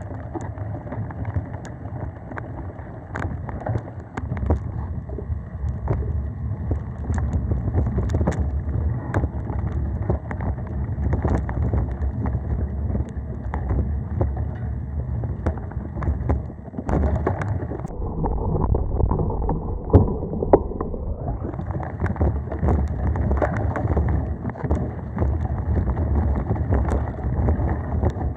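Mountain bike riding along a dirt singletrack. A steady low rumble of wind and tyre noise is broken by frequent short clicks and rattles from the bike over the trail.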